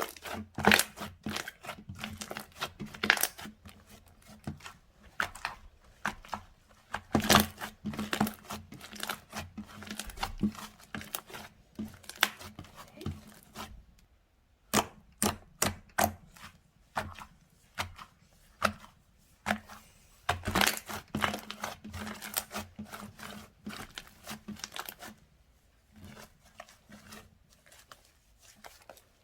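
Slime being squeezed, stretched and pressed by hand, giving irregular runs of small sharp pops and crackles in clusters, with short quieter pauses between.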